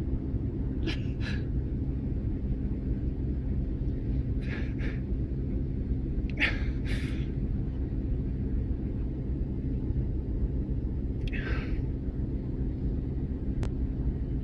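Steady low rumble with a faint hum, broken by a few short breathy sniffs or gasps about a second, four and a half, six and a half and eleven and a half seconds in, and a single click near the end.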